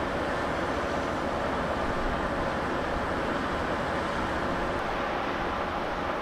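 Steady, even rumble and hiss of a railway station platform with electric trains standing and running nearby; no single event stands out.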